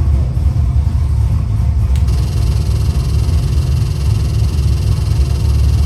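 Ford 408 cubic-inch Windsor small-block stroker V8 running steadily on an engine dyno, a loud low rumble with no revving. About two seconds in there is a sharp click, after which a steady hiss joins.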